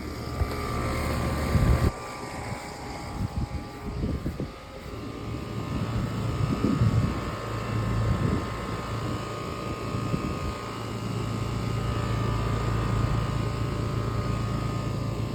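Outdoor air-conditioner condenser units running: a steady low hum with a fan whir and a held higher tone, with irregular gusts of wind on the microphone during the first half.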